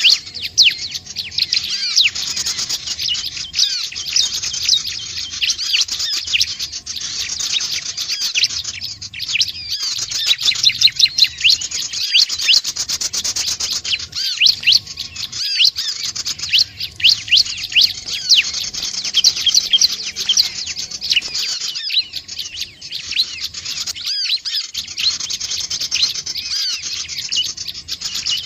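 Bar-winged prinia (ciblek/prenjak) song: a fast, continuous stream of high chirps and short curving sweeps, with only brief breaks.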